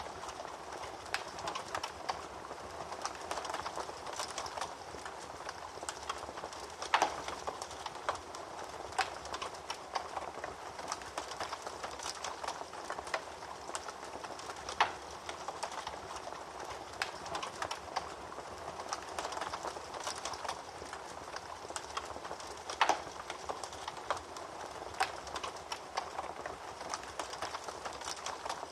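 Wood fire crackling in a fireplace: a steady soft hiss with frequent irregular pops and snaps, a few of them louder.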